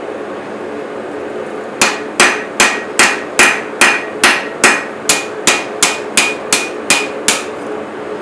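Blacksmith's hand hammer striking a chef's knife blade as it is forged: about fifteen evenly paced metallic blows, a little over two a second, each with a short ring, starting about two seconds in and stopping near the end. A steady hum runs underneath.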